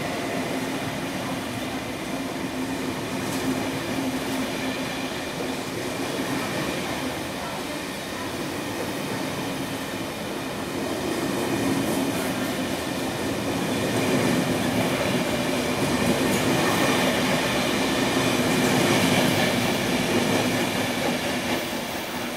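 KTT double-deck passenger coaches rolling through the station without stopping, with steady wheel-on-rail noise. The noise grows louder through the second half and drops off near the end as the last coach passes.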